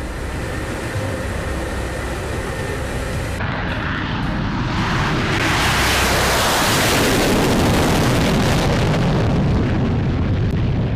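Jet fighter engine noise swelling as the aircraft passes, loudest around the middle and easing off near the end. An abrupt change in the sound comes a few seconds in.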